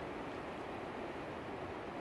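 Strong gusty wind blowing in a steady rushing hiss during a windstorm.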